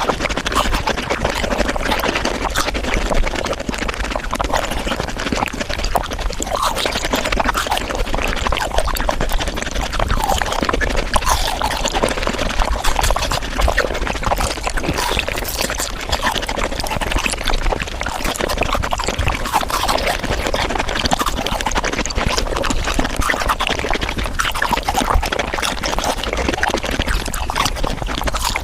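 Close-miked eating of frozen fruit, sped up five times: biting, crunching and chewing run together into a dense, continuous crackling.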